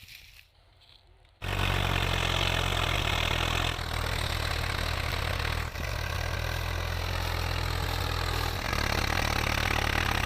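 Tractor diesel engine running loudly and steadily. It cuts in suddenly about a second and a half in, and its tone shifts abruptly a few times.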